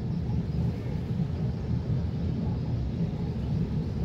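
Car ferry's engines running with a steady low rumble.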